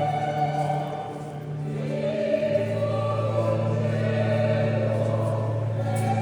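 Choir singing liturgical chant over steady held low notes, in a church Mass right after the prayer consecrating the chrism. The notes shift to a new chord about two seconds in.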